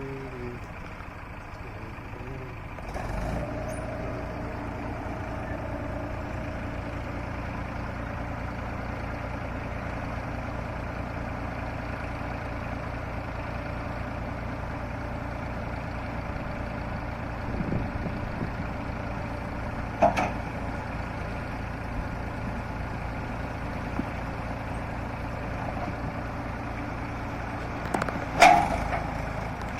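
Heavy diesel engine of loading machinery running steadily, a little louder from about three seconds in, with a sharp knock about two-thirds through and a louder one near the end.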